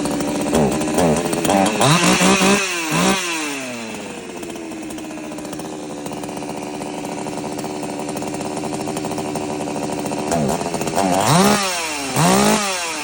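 Oleo-Mac GSH 56 chainsaw's 54.5 cc two-stroke engine idling, blipped up to high revs in several short bursts near the start and again near the end, the pitch climbing and dropping back each time. This is a test run after a fresh start.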